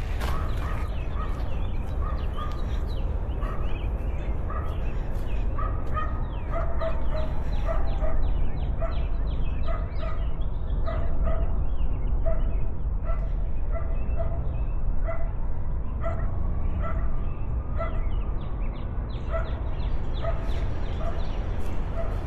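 Wind buffeting the microphone in a steady low rumble, with an animal's short pitched calls repeating about once or twice a second, clearer from about six seconds in.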